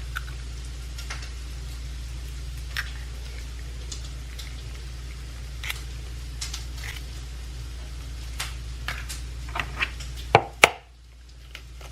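Eggs being cracked one after another and dropped into a bowl: a series of light knocks and soft squishes, with two louder knocks near the end, over a steady low hum.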